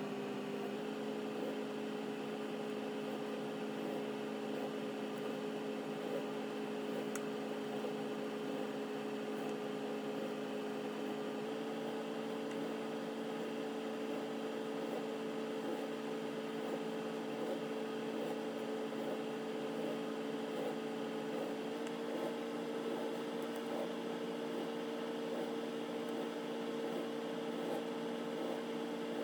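Steady electrical or mechanical hum made of a few held tones over a faint hiss, stepping slightly higher in pitch three times.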